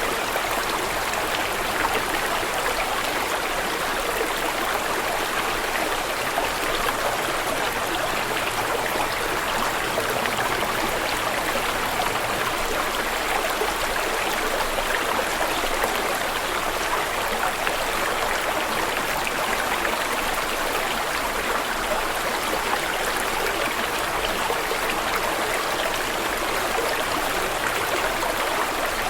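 Water flowing steadily, like a stream running over rocks, a continuous even rush with no pauses or changes.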